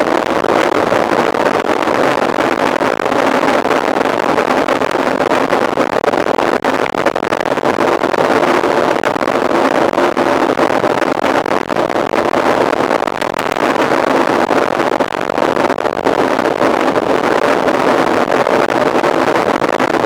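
Steady rushing noise of wind on the microphone and tyres rolling as a mountain bike is ridden at speed.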